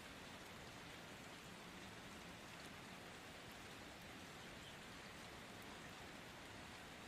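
Steady, faint rain: an even hiss with a few light drop ticks.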